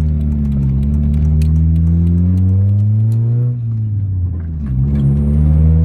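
Honda Accord's four-cylinder engine breathing through a full stainless straight-pipe exhaust, heard from inside the cabin while driving. The engine note climbs steadily for about three and a half seconds, falls off sharply as the revs drop, then climbs again near the end.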